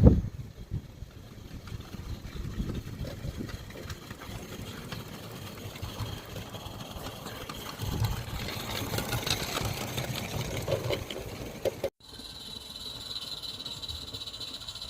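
Small 16 mm scale live-steam locomotive running, its exhaust chuffing and steam hissing, over irregular low rumbling. About twelve seconds in the sound cuts abruptly to a steady high-pitched hiss.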